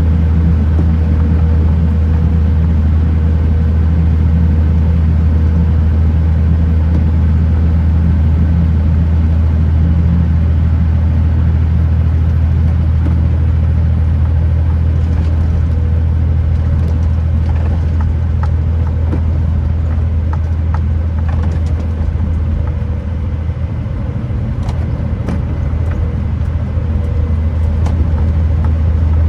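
Kenworth T909 truck's diesel engine running at a steady low drone while on the road, with road noise. The drone eases a little about three quarters of the way through, and scattered short clicks come in over the second half.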